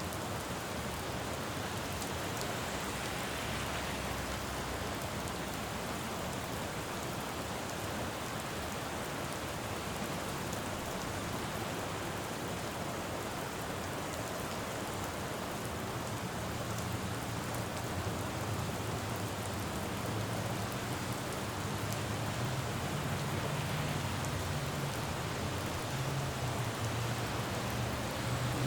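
Steady rain falling on a road, with a low rumble of traffic building up in the second half.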